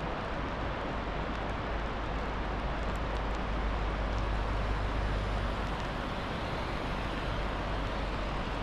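Steady road and engine noise of a moving car heard from inside the cabin, an even rush over a constant low rumble.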